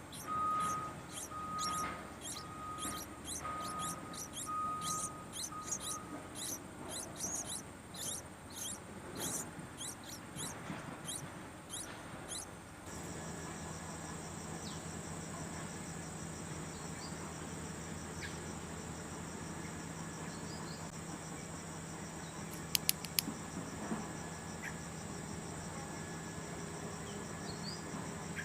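Rapid, high chirps from a small bird repeating several times a second over a pulsing tone. About halfway through, an abrupt change to a steady, high insect trill, as of crickets, with a low hum beneath it and a brief cluster of clicks.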